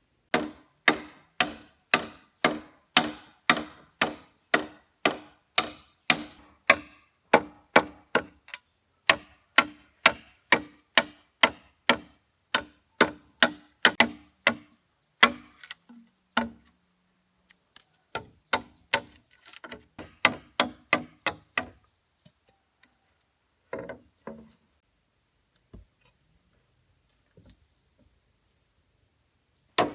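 Rapid, steady blows of a tool chopping into wood, about two to three a second. They pause briefly past the middle, resume for a few seconds, then thin out to a few scattered strikes.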